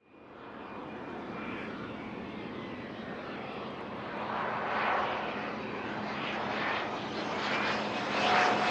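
Aircraft engine noise as a plane passes close by, building from the start and growing louder near the end, with a faint whine over the roar.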